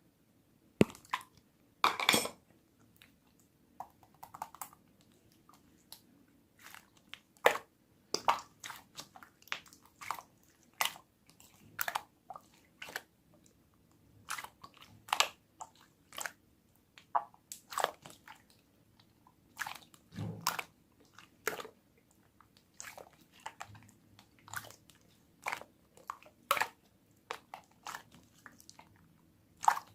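Crisp, sharp crunches and clicks at an irregular pace, roughly one or two a second, over quiet room tone; the loudest comes about two seconds in.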